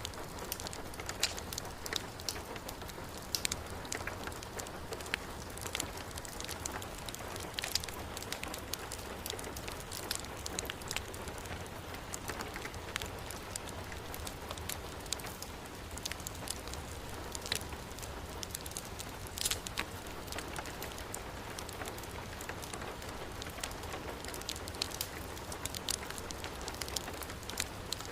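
Steady heavy rain hiss mixed with a wood fire crackling, scattered sharp pops and clicks coming every second or so over the even wash of rain.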